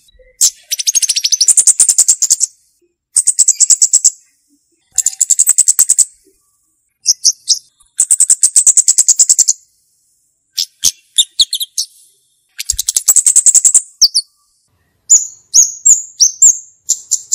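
Flowerpecker (cabe-cabean) song: loud, high, rapid trills of about 1 to 1.5 s each, repeated after short pauses. Near the end come a few short notes that slide down in pitch.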